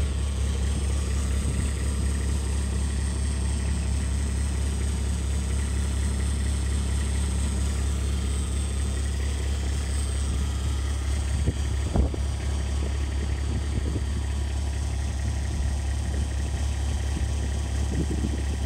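Kubota RTV-X1120's three-cylinder diesel engine idling steadily just after a cold start, with one short knock about twelve seconds in.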